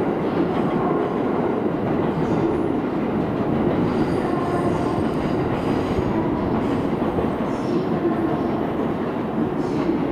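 Shinkansen train running on the track, a steady, unbroken noise.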